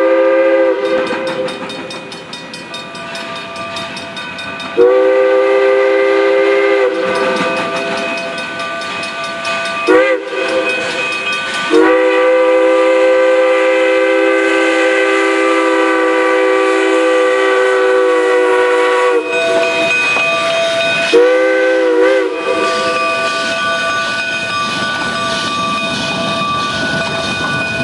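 Durango & Silverton steam locomotive's chime whistle sounding a chord of several tones in a series of blasts: one fading out at the start, a blast of about two seconds, a short toot about ten seconds in, then a long blast of about seven seconds, in the long-long-short-long pattern of a grade-crossing signal. Another blast of about a second follows near the end, over the steady noise of the train running.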